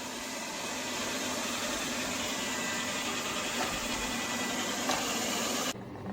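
Robot vacuum cleaner running with a steady whir, cutting off suddenly near the end.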